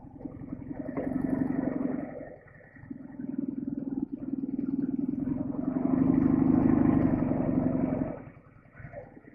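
Soviet-built flat-twin motorcycle engine pulling under throttle: it swells, eases off about two and a half seconds in, then pulls again, loudest from about six to eight seconds, before the throttle closes.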